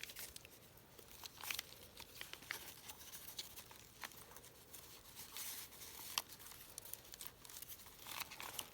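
Paper pages and scrap-paper tags of a handmade journal rustling and crinkling as they are handled and turned, with scattered light ticks.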